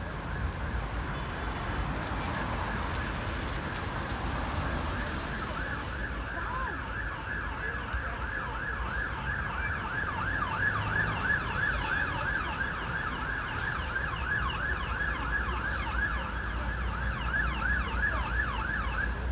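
Emergency vehicle siren in fast yelp mode, a rapid warble of about three rises and falls a second, growing clearer a few seconds in and continuing, over a low steady rumble of engines or traffic.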